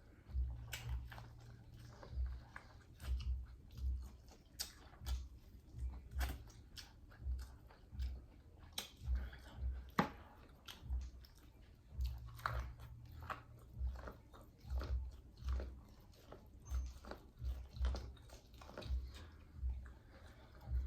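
A person chewing and biting food close to the microphone, with wet clicks and crunches at a steady pace of about two chews a second.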